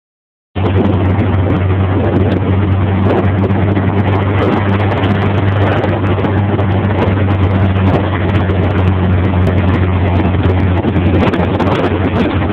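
Beach buggy driving along a road, its engine running at a steady hum under a dense rushing noise. The sound begins abruptly about half a second in and then holds steady.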